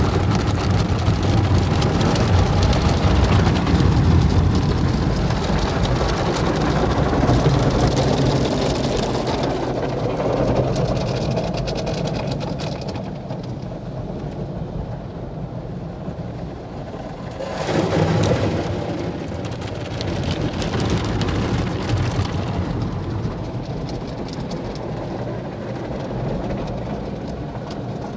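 Automatic car wash working over a car, water spraying and drumming on the body and windows, heard from inside the cabin. It comes in waves: strongest at first, easing off, then surging again briefly about 18 seconds in.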